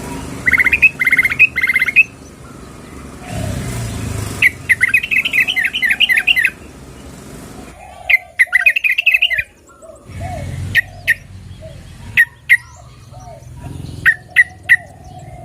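Yellow-vented bulbul calls: three runs of rapid, bubbly chattering notes, each a second or two long, then scattered single sharp notes. The recording is presented as a female calling to a male. Softer, lower calls sound underneath.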